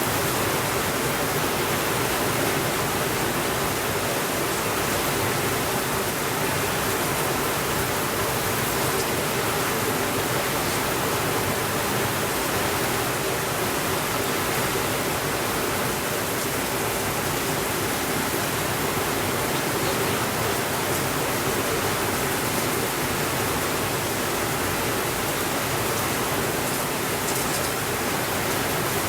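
Steady rainfall, a dense, even hiss with no thunder, and a few faint ticks here and there.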